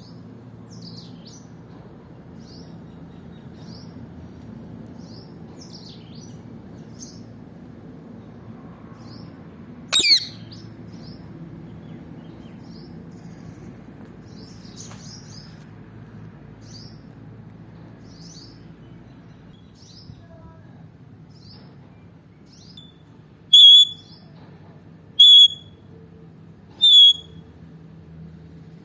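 Ringneck parrot (rose-ringed parakeet) calling: faint short high chirps throughout, one loud call about ten seconds in, and three loud calls about a second and a half apart near the end.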